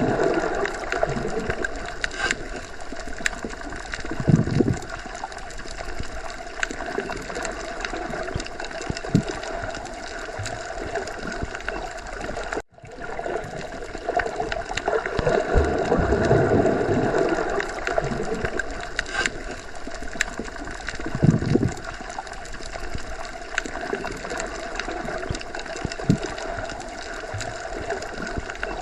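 Underwater sea ambience: a steady, muffled water wash with gurgling and soft low swells every few seconds. It cuts out for an instant about halfway through.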